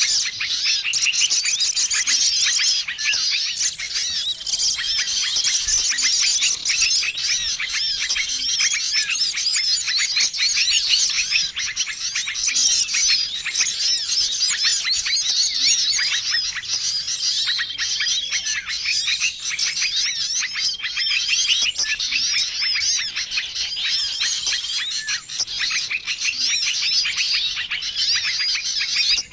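A dense, busy chorus of many small songbirds chirping and twittering without a break, with a short steady whistled note recurring every few seconds. It is a mixed small-bird lure call (suara pikat) for drawing wild birds in to be trapped.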